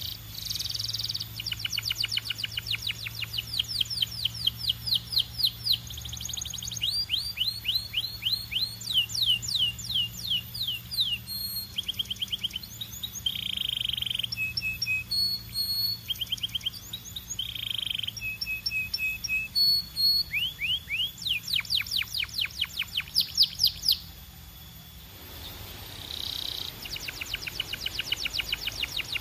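Canary singing a long, fast song: rapid trills and rolls of repeated down-sweeping notes alternating with short held notes, with a brief break near the end before it starts again. A faint low hum runs underneath.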